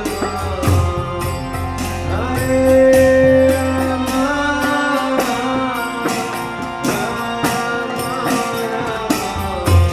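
Kirtan music: a sustained harmonium drone with small hand cymbals striking a steady beat and a deep drum, under chanting voices. The low drum drops out about halfway through and comes back near the end.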